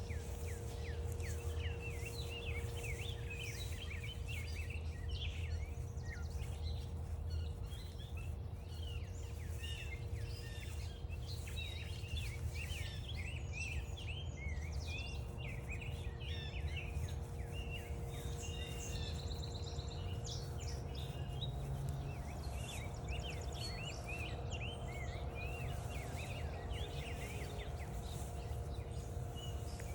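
Several songbirds singing and calling at once, in overlapping chirps and warbles, with a fast even trill about two-thirds of the way through. A steady low rumble and a faint steady hum run underneath.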